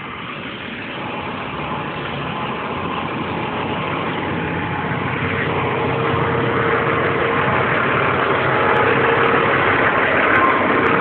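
Semi-truck diesel engine idling with a steady rumble that grows steadily louder through the stretch.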